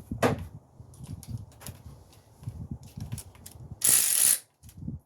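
Hand tools clicking and rattling on parts in a car's engine bay, with a short, loud hissing burst about four seconds in.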